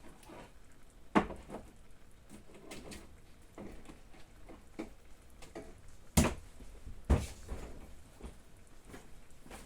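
Kitchen cupboard door and contents knocked about while rummaging: three sharp knocks, one about a second in and two close together around six to seven seconds in, with quieter clicks and handling sounds between.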